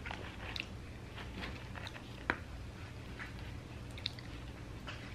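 Close-up chewing and mouth sounds of a person eating animal style fries, with scattered small clicks and one sharp click about two seconds in.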